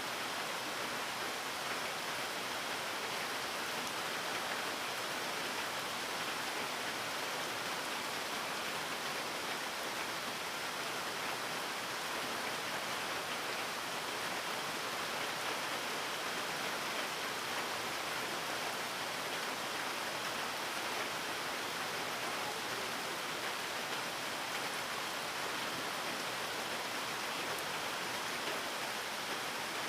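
Rain falling steadily, an even hiss with no single drops or other events standing out.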